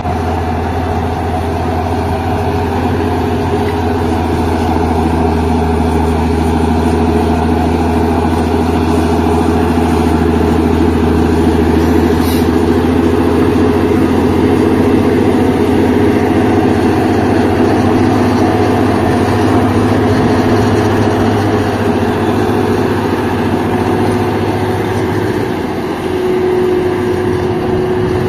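Tractor engine running steadily with a loud, low drone, briefly dropping in level near the end.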